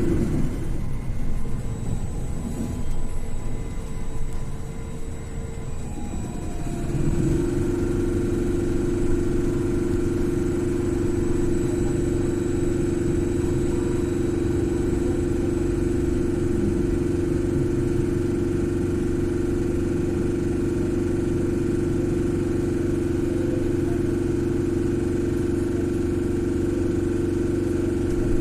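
Inside a BKM 42003A "Vitovt" trolleybus under way: a low ride rumble, then about seven seconds in a loud steady hum starts and holds at one pitch.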